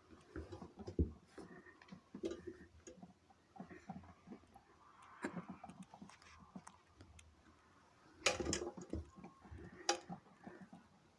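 Irregular soft knocks, clicks and rustling of wet laundry being moved about by hand in the stopped drum of a front-loading washing machine, with a louder clatter about eight seconds in and a sharp knock near the end.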